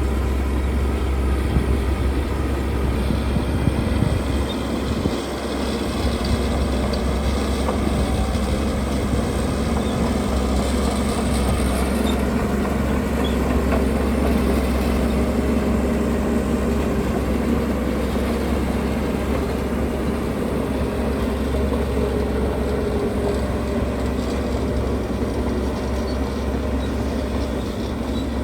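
Heavy earthmoving machinery's diesel engine running steadily under work, dipping briefly about five seconds in.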